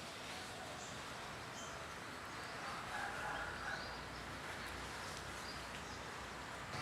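Outdoor natural ambience: a steady background hiss with a few faint, short bird chirps scattered through it.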